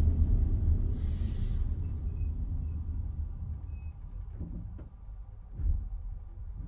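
Low railway rumble fading steadily away, with faint high metallic squeals in the first few seconds and a short bump near the end.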